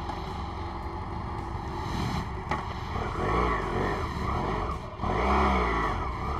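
Motorcycle engine running under wind noise, its pitch rising and falling twice, about three and five seconds in, as the throttle is opened and eased off.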